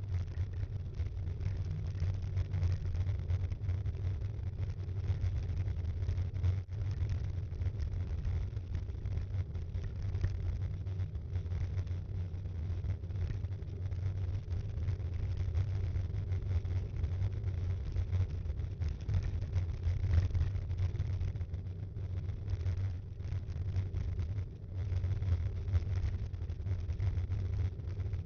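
Steady low rumble of a B'Twin Rockrider 5.1 mountain bike being ridden, picked up through the action camera mounted on it, with frequent small knocks and rattles from bumps in the road.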